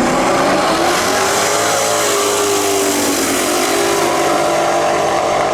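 Drag race cars running at full throttle, their engines loud and steady, with the engine pitch climbing and then dropping back as they pull through the gears.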